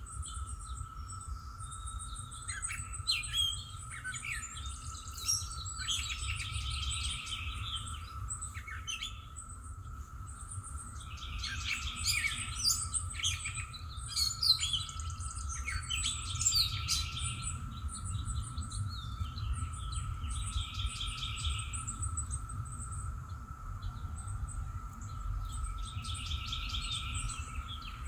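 Songbirds singing and chirping, with a short trilled phrase repeated every few seconds, over a steady faint high hum and a low background rumble.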